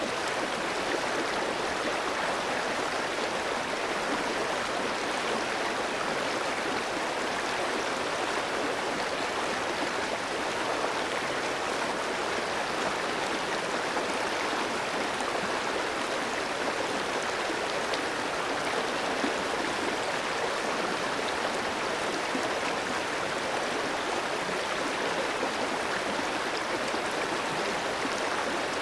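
A clear, shallow stream flowing steadily over rocks, a continuous rushing and babbling of water.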